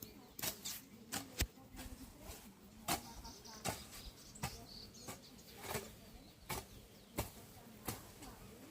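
Hand hoe chopping into soil, a short strike at each stroke repeating at an uneven pace of roughly one a second.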